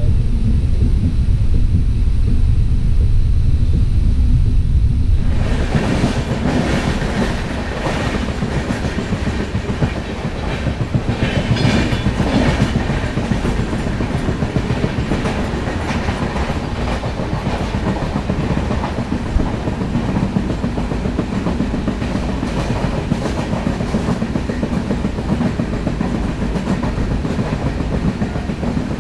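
Passenger train coach running along the track, heard from its open doorway: a deep, wind-buffeted rumble for about five seconds, then suddenly the fuller running noise of the wheels with a steady clickety-clack over the rail joints.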